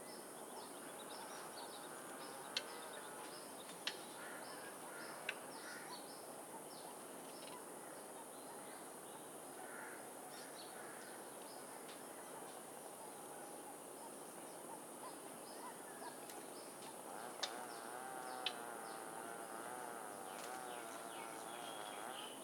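Small caged birds chirping with many short, high calls, joined by a wavering warble from about three-quarters of the way in. A few sharp clicks stand out over the chirping.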